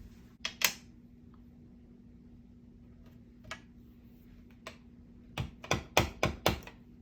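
Sharp clicks and knocks of craft tools and supplies being picked up and set down on a work table: a couple near the start, single ones later, then a quick run of about six near the end.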